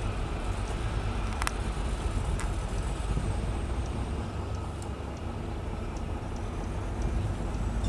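Diesel engine of heavy road-building machinery, motor grader or roller compactor, running steadily with a low rumble. A sharp click comes about one and a half seconds in.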